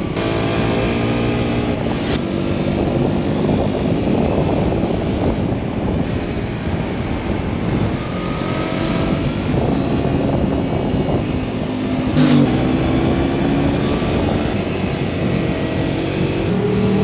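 Motorcycle engine running under way, its pitch rising and falling with throttle and gear changes, over a steady rush of wind and road noise. A brief sharper burst stands out about twelve seconds in.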